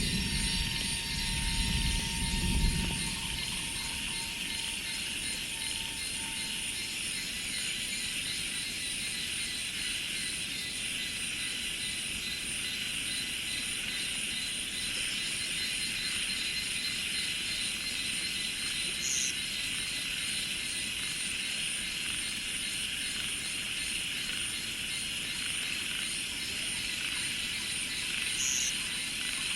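Steady, dense chorus of insects such as cicadas and crickets, a high shrill hiss that never lets up. A low rumble, like a passing vehicle, fades out in the first three seconds, and two short high chirps come later, one about two-thirds of the way in and one near the end.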